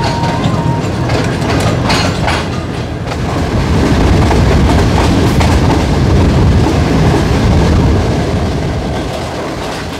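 Passenger train coaches running on the rails with a clickety-clack of wheels over joints and junction points. The running noise swells about four seconds in and eases off near the end.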